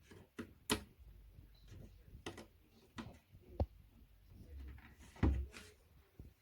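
Flat-pack furniture parts being handled and fitted together by hand: scattered light knocks and clicks of particleboard panels and fittings, the sharpest about three-quarters of a second in and about a second before the end.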